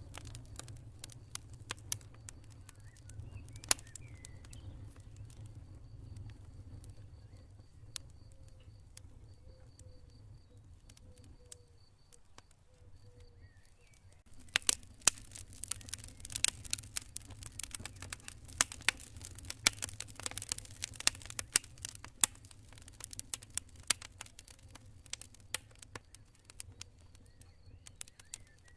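Campfire crackling, with scattered sharp pops over a low rumble, turning into dense, louder crackling about halfway through. A cricket chirps in steady pulses in the background during the first half.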